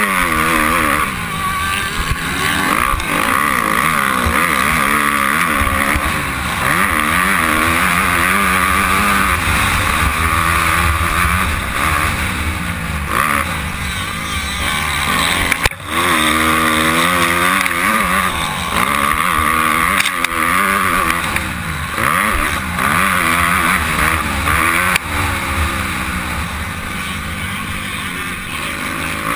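Honda CRF250R four-stroke single-cylinder motocross engine revving up and falling back again and again as the bike is raced, over wind rush on a helmet-mounted microphone. About sixteen seconds in there is a sharp knock and the engine sound dips briefly.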